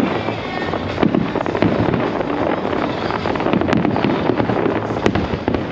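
Aerial fireworks display: sharp bangs about a second apart over a dense rumble and crackle of bursting shells.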